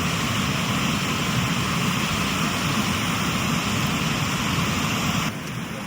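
Steady rushing of river water, an even hiss that eases a little near the end.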